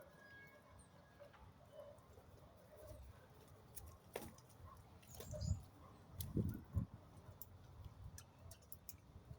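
Faint bird sounds: short scattered calls and light ticking, with a few dull low thumps about five to seven seconds in.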